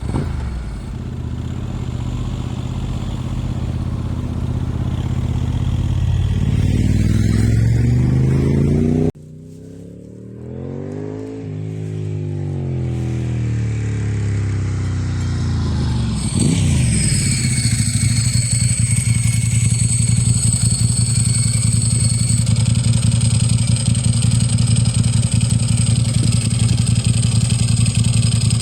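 Vehicle engines at a railway level crossing: an engine climbing in pitch that cuts off abruptly about nine seconds in, then a vehicle passing with a sweeping rise and fall, and from about sixteen seconds a steady engine hum with high, steady tones above it.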